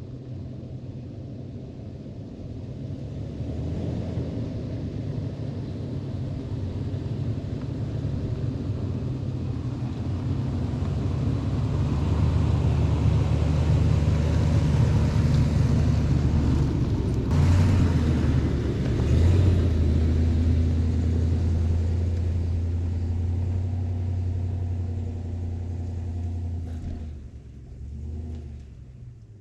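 Vehicle engine running under way: a steady low drone that grows louder through the first half, breaks briefly twice about two-thirds of the way through, then drops off near the end.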